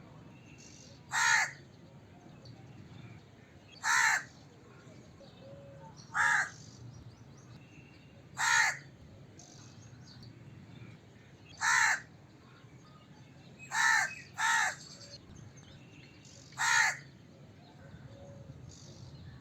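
A crow cawing: single caws every two to three seconds, eight in all, with two in quick succession about two-thirds of the way through.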